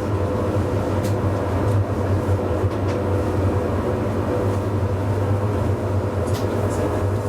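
Hakodate City Tram car 530 running along the track: a steady low hum and rumble, with a few sharp clicks about a second in and again near the end.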